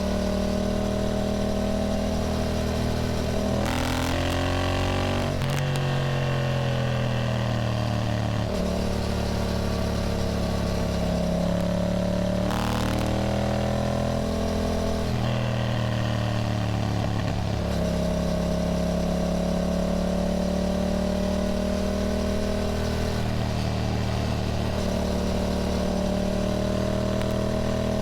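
A Yamaha motorcycle engine running under way. The revs climb briefly about four seconds in and again about twelve seconds in, then fall back each time. For the rest it holds a steady cruise.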